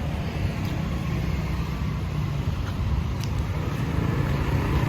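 Steady city road traffic: a low rumble of passing vehicles.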